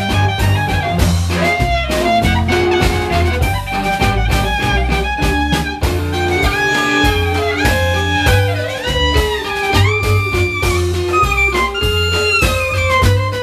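Live klezmer-punk band playing an instrumental passage. Drums keep a steady beat under a walking bass line, while a lead instrument plays sustained melody notes with bending slides.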